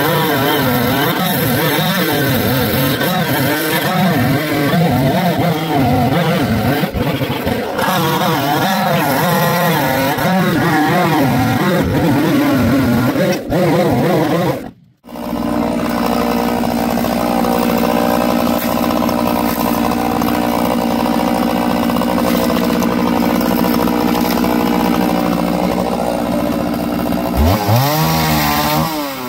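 Two-stroke chainsaw running, its pitch wavering up and down as it works. It breaks off abruptly about halfway through, then runs at a steady pitch and revs up near the end.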